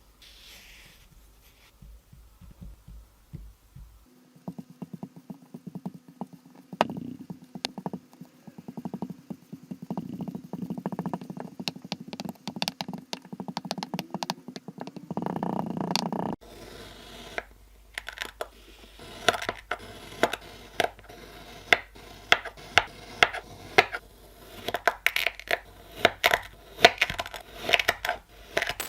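Kinetic sand being crushed and cut, crunching and crackling. It starts faint, becomes a dense steady crackle from about four seconds in, then gives way to a run of sharp, separate crunches in the second half.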